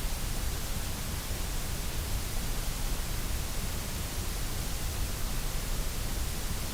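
Steady electronically generated white noise: an even, unchanging hiss spread across the whole range, with no events or changes.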